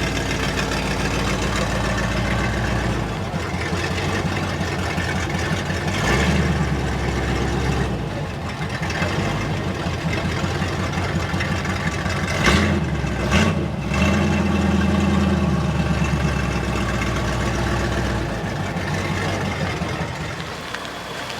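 V8 car engine running at low speed as the car is manoeuvred, with brief rises in revs about six seconds in and twice around twelve to fourteen seconds in, settling lower near the end.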